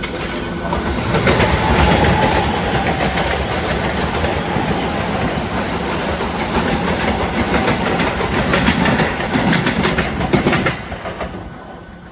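Local passenger train running along the track, its wheels clattering over the rail joints in a rapid, uneven rhythm of clacks under a steady rumble. It fades away near the end.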